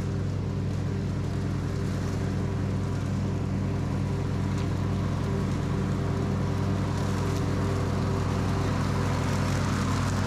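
Simplicity Regent lawn tractor engine running steadily at constant speed with the mower deck engaged, collecting leaves.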